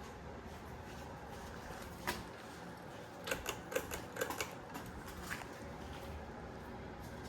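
Hunter Coastal Breeze ceiling fan running with a steady hum, broken by one sharp click about two seconds in and a quick run of several clicks a second or so later.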